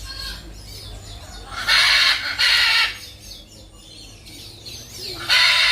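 Indian peafowl calling: two loud, two-part honking calls, one about two seconds in and another starting near the end.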